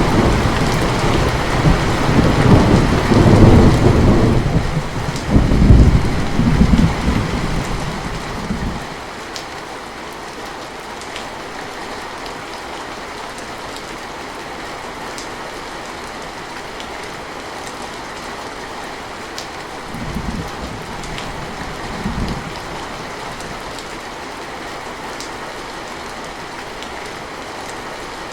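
Steady rain with a long roll of thunder that swells twice and dies away about nine seconds in. The rain then carries on alone, broken by two short low rumbles of thunder later on.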